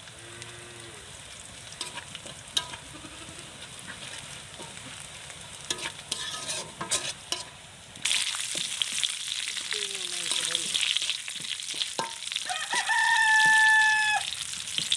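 Food frying in a pan with a spoon stirring and scraping. About halfway through the sizzling abruptly grows loud and hissing. A rooster crows once near the end, one held call.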